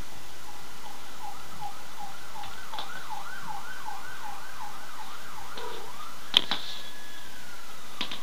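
Emergency-vehicle siren in a fast yelp, rising and falling about two to three times a second, then switching to a long tone that slowly falls. It is faint behind a steady hiss. A sharp click about six seconds in is the loudest sound.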